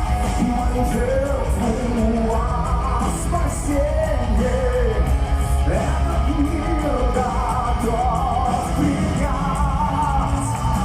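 Power metal band playing live with a vocalist singing over loud guitars and drums, heard in a large hall.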